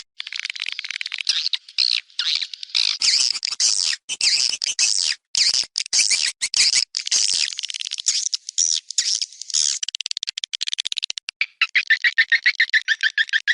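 Swiftlet lure recording: dense, high twittering and chirping of swiftlet calls, breaking into a fast run of evenly spaced chirps, about ten a second, near the end.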